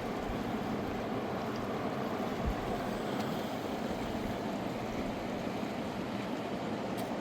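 Fast-flowing mountain river rushing steadily, an even wash of water noise with no break.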